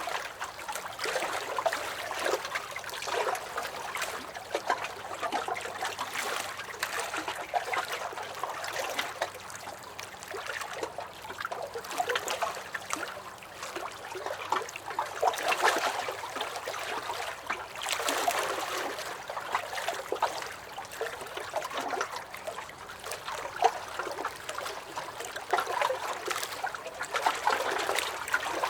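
Small lake waves lapping and sloshing against a dock, in an uneven run of splashes and gurgles that swell and ease every few seconds.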